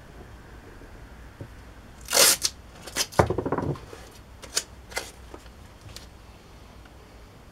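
Masking tape being pulled off the roll and torn: a short loud rasp about two seconds in, a rapid crackling run about a second later, then a few short sharp ticks.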